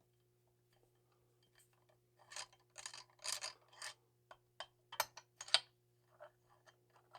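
Hand work on a chainsaw's bare engine parts: a few short scraping rubs, then several sharp metallic clicks and small ticks, over a steady low hum.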